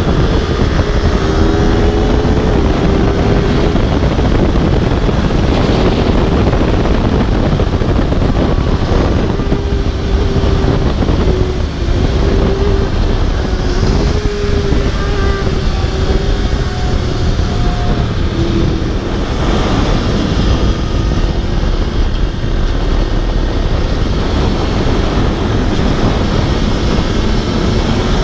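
Aprilia RSV4's V4 engine running at track speed under heavy wind rush on the microphone, its pitch rising and falling with the throttle and gear changes.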